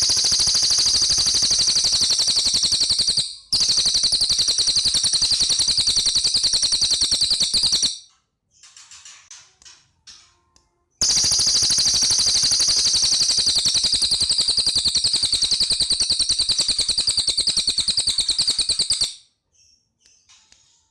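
Cililin songbird singing long, loud, rapid rattling trills in three bouts: one of about three seconds, one of about four and a half, and one of about eight. Faint short chirps come in the pause between the second and third.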